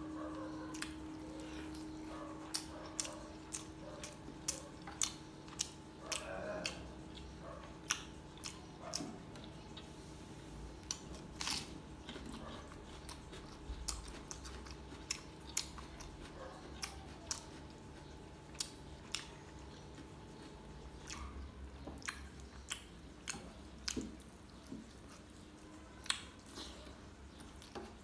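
Chewing and lip-smacking of a mouthful of chicken leg and rice, with sharp wet mouth clicks every second or so. A faint steady hum lies underneath.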